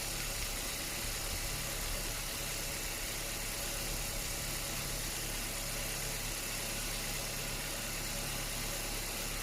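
A 2007 Ford Focus engine idling steadily, kept running while the engine bay is steam cleaned, with an even hiss above it.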